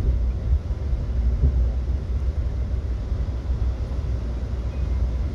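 Steady low rumble inside an Amtrak Heartland Flyer passenger coach as the train rolls along.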